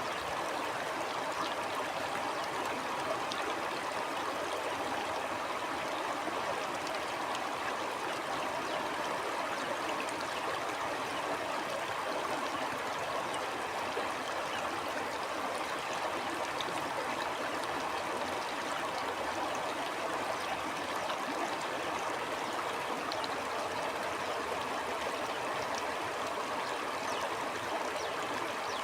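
Stream water flowing steadily over rocks, an even rushing with faint trickles and splashes throughout.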